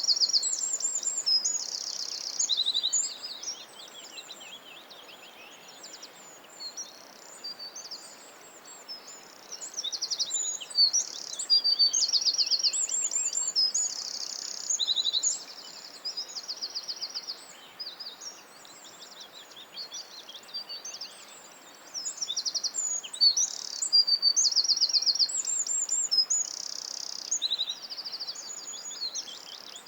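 Songbirds singing in a forest: high-pitched, rapid trills and chirps that come in loud stretches near the start, in the middle and towards the end, with softer calls between, over a faint steady hiss.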